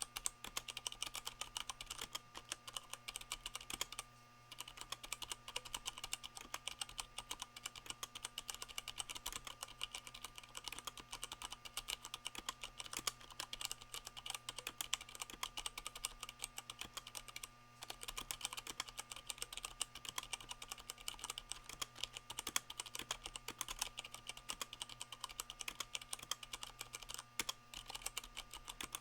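Fast, continuous typing on a Leopold FC660M 65% mechanical keyboard with Cherry MX Brown switches fitted with rubber O-rings, the board resting on a microfiber towel. The typing pauses briefly about four seconds in and again past the middle, over a faint steady hum.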